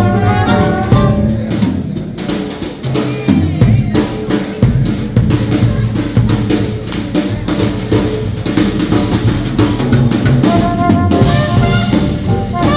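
Live swing jazz band with a drum break: snare, bass drum and rimshot strokes over the bass, the horns coming back in with held notes near the end.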